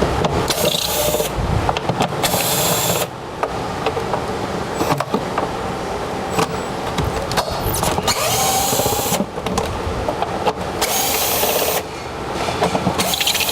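A power tool running in short bursts of about a second, five times, over steady shop noise.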